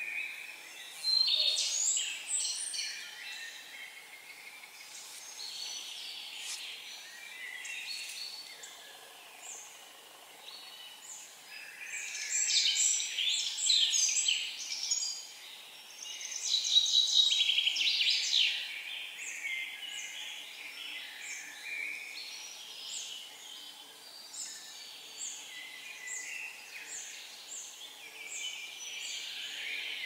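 Songbirds singing. Loud song phrases come about a second in and twice more near the middle, and a run of short, evenly repeated high notes follows toward the end.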